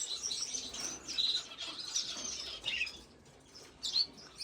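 Fife canaries in a cage giving scattered short chirps and calls, with a brief rapid trill about a second in and a couple of sharp calls near the end.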